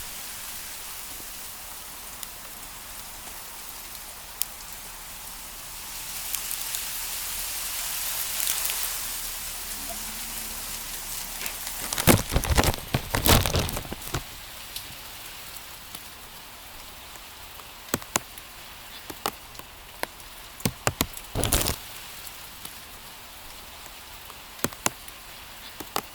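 Hail and rain falling in strong wind. A steady hiss swells for a few seconds, then a dense run of loud hailstone strikes comes about twelve seconds in, followed by scattered sharp knocks of single hailstones hitting hard surfaces.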